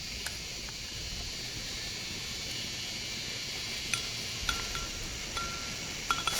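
A few light metallic clinks, each ringing briefly, from metal utensils and camp cookware, over a steady hiss.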